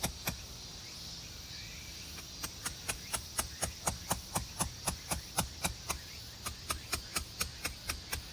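Rapid, evenly spaced clicks, about four a second, stopping for about two seconds near the start and then resuming, over a steady high buzz of insects.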